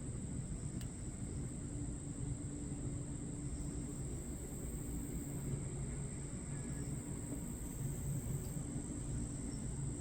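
Crickets chirring in one steady high-pitched trill, over a low hum that swells and fades a couple of times.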